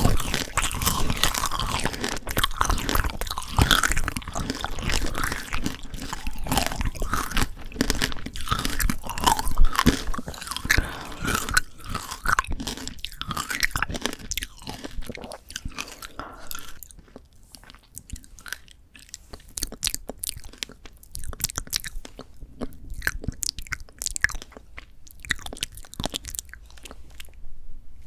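Close-miked crunching and chewing of frozen shine muscat tanghulu, the hard candy shell cracking between the teeth in dense crackling bites. After about two-thirds of the way through it turns quieter and sparser, as softer chewing.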